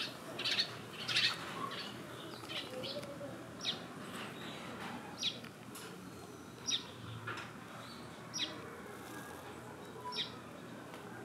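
A bird calling with short, high, falling chirps: a quick cluster in the first second or two, then single chirps about every second and a half.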